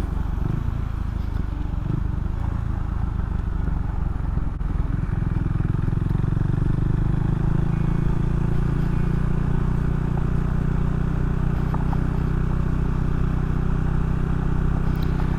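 Can-Am Ryker three-wheeled motorcycle running at a steady riding speed on a dirt road, its engine drone mixed with wind and tyre noise. The engine note firms up and grows a little louder about halfway through.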